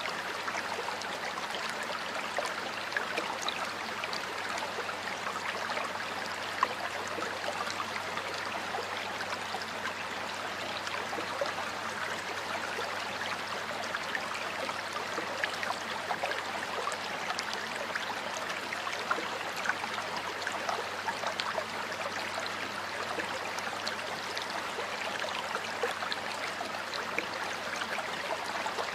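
A stream of water flowing and burbling steadily, a constant rushing wash with small splashes and bubbling flickers throughout.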